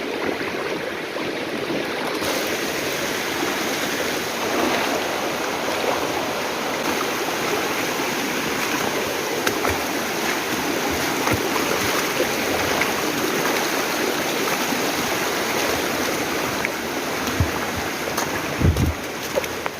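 Mountain river water rushing steadily over rocks. A few low bumps come near the end.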